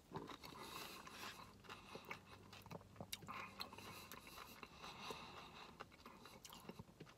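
Faint, close-up mouth sounds of chewing a spoonful of chicken tortilla soup with chicken, beans and corn: soft wet chewing with small clicks, and a spoon scraping in the paper cup. A single louder click comes right at the start as the spoon goes into the mouth.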